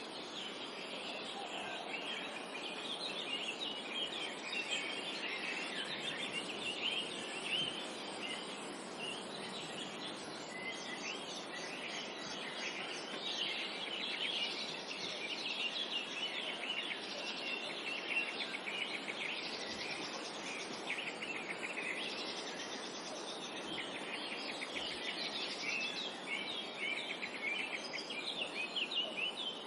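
A chorus of small songbirds chirping and singing in quick overlapping phrases, over a steady background hiss of forest ambience.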